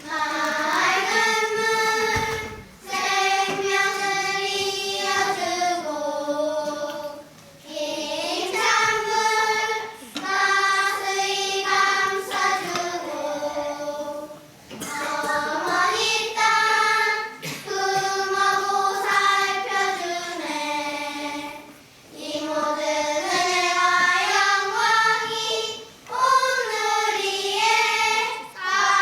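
A group of young children singing a song together in unison, line by line, with short breaks for breath between phrases.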